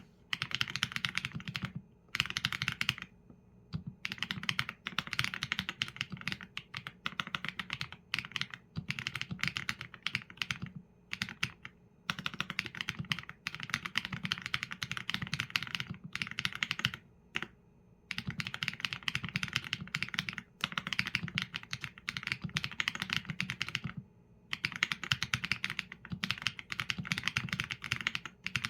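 Fast typing on a Qsenn A75 mechanical keyboard with Leobog Graywood V4 linear switches and PBT keycaps: dense runs of keystrokes in bursts of a few seconds, broken by short pauses.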